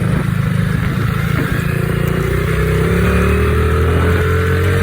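Pit bike engine running steadily while riding. About halfway in, the pitch shifts and then climbs slowly as the bike picks up speed.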